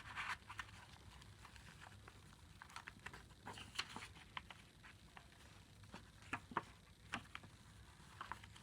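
Faint handling of a handmade paper journal: scattered small clicks, taps and rustles as cardstock pages, tags and postcards are moved and turned.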